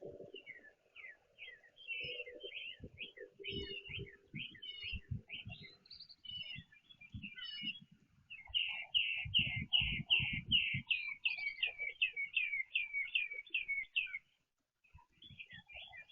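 Backyard songbirds chirping, then about halfway through one bird sings a fast run of some fifteen loud repeated notes, roughly three a second, that stops suddenly. Low knocks and bumps sound underneath.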